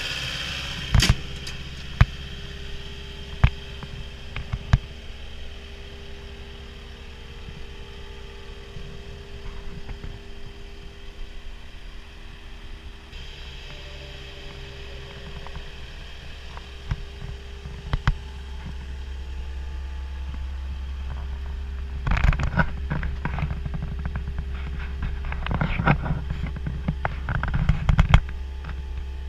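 CAT 242D skid steer loader's diesel engine running steadily. A few sharp knocks come in the first five seconds and another later. Near the end there is a stretch of metallic clanking and rattling.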